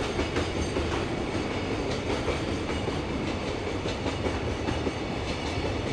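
Container wagons of a freight train rolling past, a steady rumble with wheels clacking over the rail joints.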